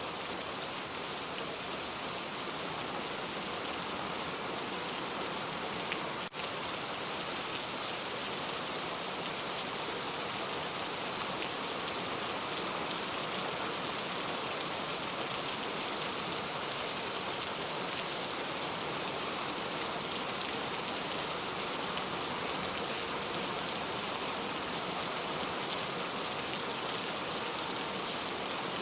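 Steady rain falling, with a momentary dip about six seconds in.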